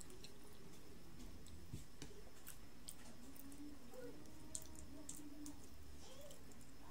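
Faint close-up eating sounds of avocado slices being bitten and chewed: scattered small wet mouth clicks and lip smacks.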